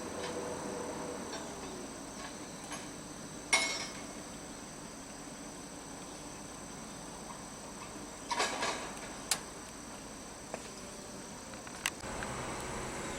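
Rough-terrain crane being stowed after a lift: a steady mechanical hum with a faint high whine, broken by a few sharp metallic knocks. The loudest comes about three and a half seconds in, then a short cluster of knocks later and single clicks near the end.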